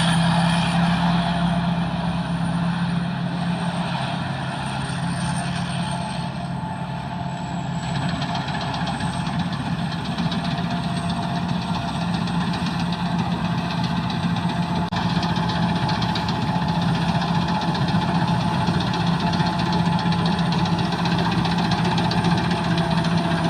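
Sakpatthana KM-D rice combine harvester running steadily while harvesting, a continuous engine and machinery drone with a strong low hum.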